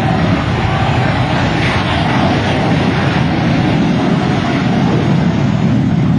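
Shockwave jet truck's three jet engines running steadily at high power in a loud, even rush of noise as it runs up for its run.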